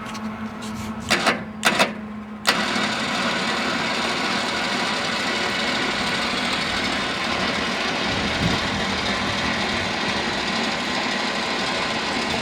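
A few sharp metal clanks, then about two and a half seconds in an electric winch motor starts and runs steadily, paying out cable as the Rampage lift's wheel cup table travels down the inner slide.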